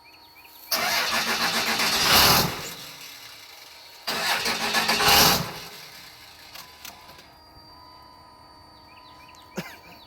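P-pump 24-valve Cummins diesel cranking on the starter in two bursts, each getting louder near its end, without staying running: a hard cold start after the truck has sat for three days.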